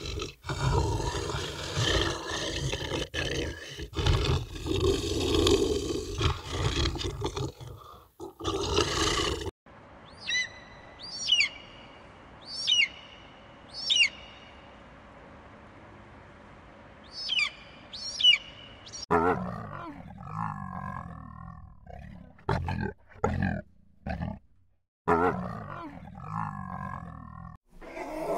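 A run of animal sounds. It opens with a loud, rough, noisy stretch. About ten seconds in come an eagle's short high screeches that fall steeply in pitch, six of them about a second apart, and from about 19 s on there are pitched calls that waver up and down, broken by a few short sharp sounds.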